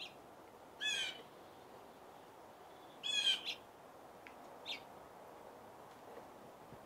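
Bird calls: four short calls, one right at the start, one about a second in, a longer, loudest one around three seconds in, and a brief one near five seconds, over a faint steady outdoor hiss.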